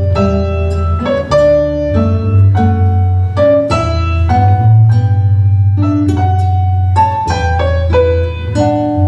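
Live ensemble playing a baroque piece: a keyboard sounds a steady run of notes over a sustained bass line.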